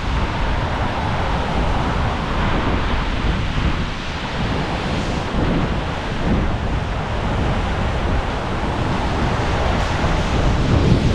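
Strong storm wind gusting and buffeting the microphone: a steady rushing noise with a heavy low rumble.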